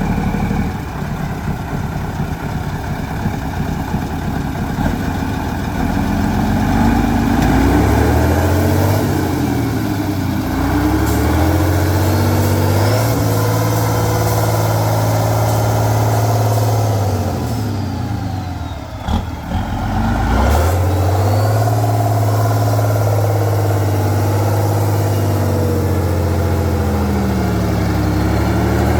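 Off-road trial truck's engine revving, its pitch rising and falling several times as the throttle is opened and eased. About two-thirds of the way through the engine briefly drops away, with a short sharp sound, then picks up again.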